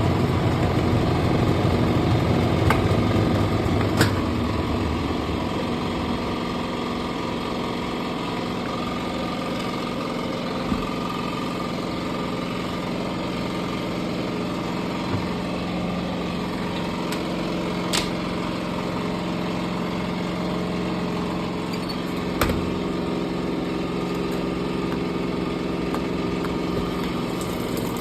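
Washing machine running with a steady motor hum. It is louder with a low, uneven rumble for the first five seconds, then settles into an even hum, with a few short clicks.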